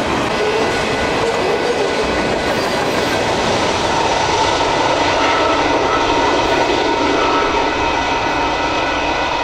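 Freight train passing: diesel locomotives and rolling cars making a steady, loud rumble, with several steady high-pitched tones over it.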